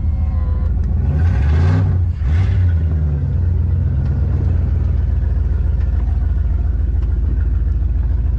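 Ram pickup's V10 engine running under way, a steady low rumble with two brief throttle surges between about one and two and a half seconds in, heard from inside the cab.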